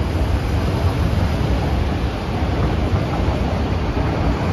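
SMRT C151B MRT train rolling along the elevated track as it pulls out of the station: a loud, steady rumble and rush of noise without a clear motor whine.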